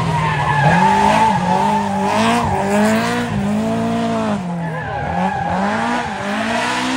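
Rally car engine revving hard, its pitch rising and falling over and over, with tyre squeal.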